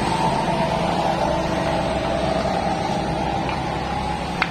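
Steady mechanical running noise with a faint wavering whine, and a single click near the end.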